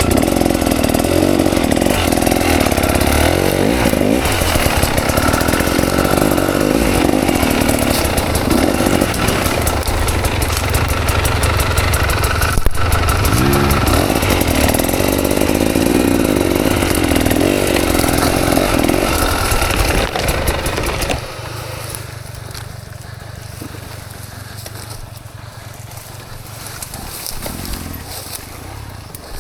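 KTM 300 XC two-stroke dirt bike engine running hard, its revs rising and falling, then dropping to a much quieter, steadier note about 21 seconds in.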